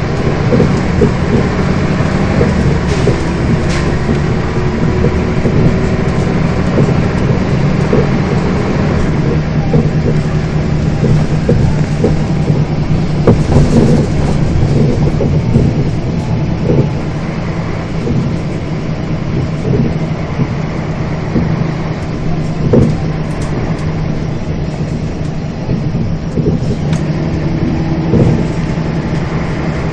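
A Scania bus heard from on board while under way: a steady low engine drone whose pitch shifts a little, with frequent short rattles and knocks from the body and fittings.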